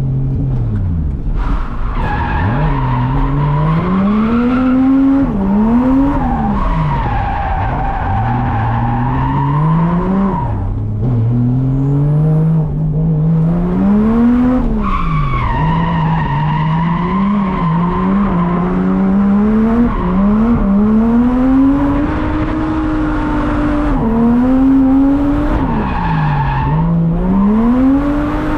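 Drift car engine worked hard through a drift run, its revs climbing again and again and dropping sharply as the throttle is lifted or a gear is changed, with tires squealing as the car slides.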